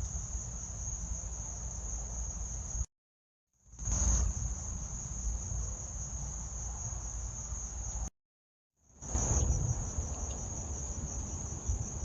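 Night chorus of crickets: a steady, continuous high trill. It cuts out abruptly twice, about three seconds in and about eight seconds in, for half a second of silence each time, then swells back in.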